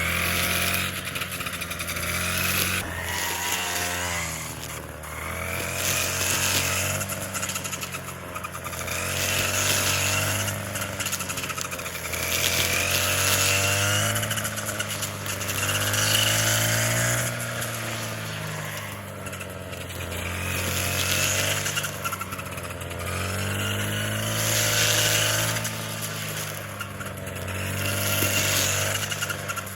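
A small engine-powered tool running, its pitch and load swelling and easing every two to three seconds as it works.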